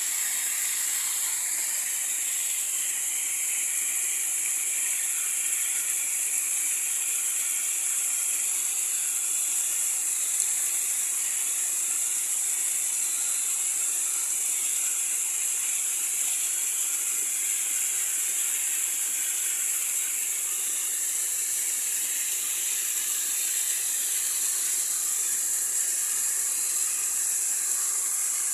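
Running water, a steady even hiss with no breaks.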